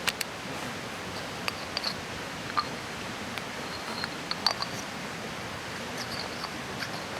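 Steady rush of a mountain stream, with scattered sharp clicks and small pops over it, the loudest right at the start and about four and a half seconds in.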